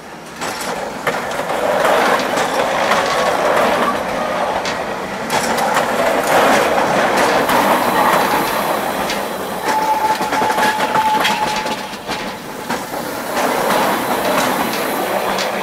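Gornergrat Bahn electric rack-railway train rolling slowly past at close range, wheels clicking over the track with a short steady squeal about two-thirds of the way through.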